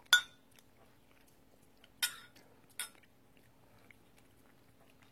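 A light clink of tableware against a bowl right at the start, then two short slurping sips of chicken bone broth about two and three seconds in, over a faint steady hum.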